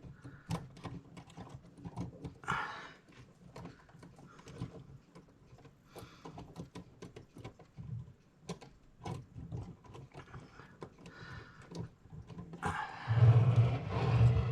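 Light clicks and taps of small metal clock-movement parts being handled and fitted. Near the end comes a much louder, rough, low-pitched sound lasting about two seconds.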